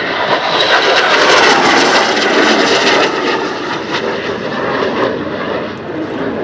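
McDonnell Douglas EAV-8B Harrier II jet engine noise, a Rolls-Royce Pegasus turbofan, loud and crackling. It swells sharply at the start, peaks over the next couple of seconds, then slowly eases off.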